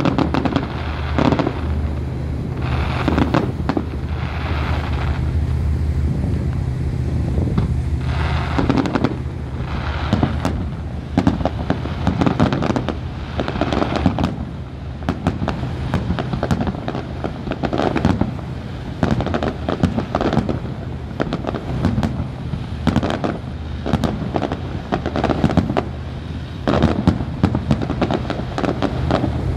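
Fireworks display: many sharp bangs and crackles, some coming in dense clusters, over a steady low hum.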